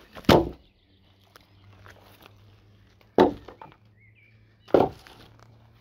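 Three sharp chopping strikes on wood, a second and a half to three seconds apart.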